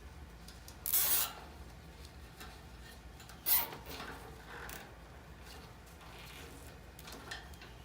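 Hand work on a furnace blower assembly while the run capacitor is fitted into its bracket: a rasping rub about a second in, a shorter sharp scrape a few seconds later, and small clicks and rustles between.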